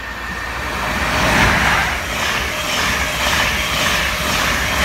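InterCity 125 High Speed Train, led by a Class 43 diesel power car, passing straight through a station at speed: a loud rush of engine and wheel-on-rail noise that rises as the train arrives, with a regular beat as the coaches go by.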